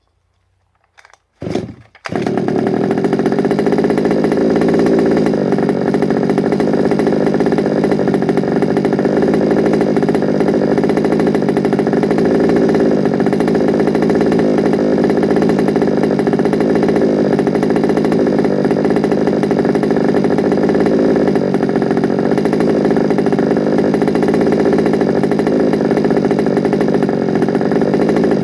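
Small petrol two-stroke engine of a large-scale FG Sportsline RC car starting up: a couple of short bursts about a second in, then it catches and runs at a steady speed before cutting off suddenly near the end.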